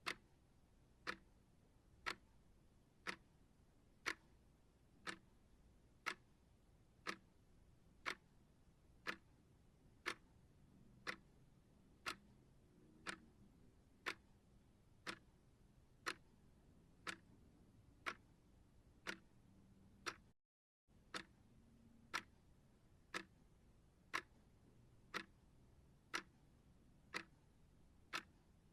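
Clock ticking steadily at one tick a second, with a brief moment of complete silence about twenty seconds in.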